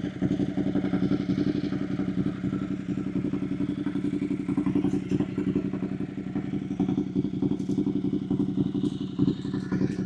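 Ducati Monster 1200's L-twin engine running at a steady low speed through an SC-Project CRT slip-on exhaust, with an even, fast pulsing beat and no revving. A few faint clicks come through near the middle and again near the end.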